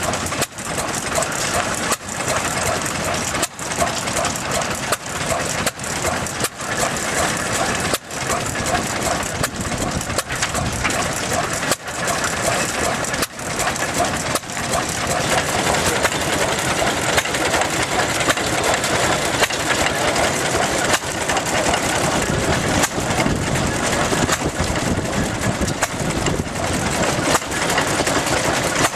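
1940s Imperial Horwood Bagshaw hay baler running under engine power, working with a mechanical clatter that dips briefly every second and a half to two seconds for the first half, then runs more steadily. Voices can be heard in the background.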